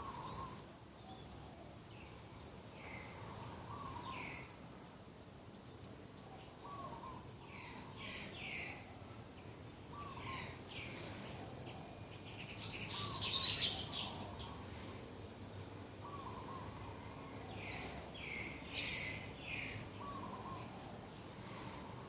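Doves cooing in short, repeated low phrases, with other small birds chirping higher over them; the loudest moment is a burst of chirping about thirteen seconds in.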